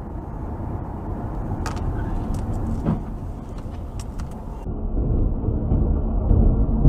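Car driving, with steady engine and road rumble heard from inside the vehicle and a few light clicks in the first half. About two-thirds through the sound changes abruptly and the low rumble grows louder.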